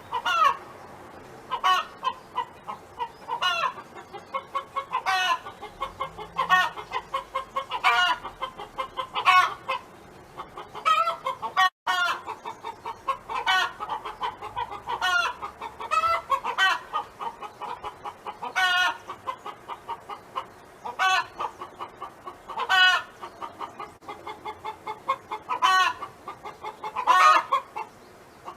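Domestic hen clucking in quick runs, broken every second or two by a louder, drawn-out call that rises and falls in pitch.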